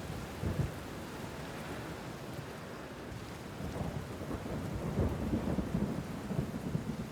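Steady rain, with low thunder rumbling: a short roll just after the start and a longer one building from about halfway until near the end.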